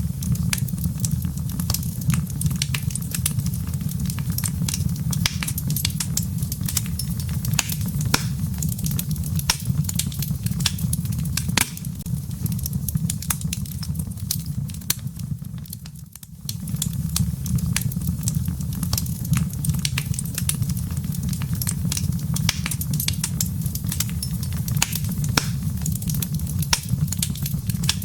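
Wood fire burning in a fireplace: embers crackling with frequent sharp irregular pops over a steady low rumble. The sound dips briefly about halfway through, then comes back.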